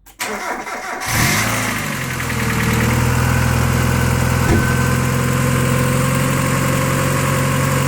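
Mazda MX-5 Mk1 1.6-litre four-cylinder engine cold-started: the starter cranks briefly, the engine catches about a second in, and after a short flare of revs it settles into a steady cold idle.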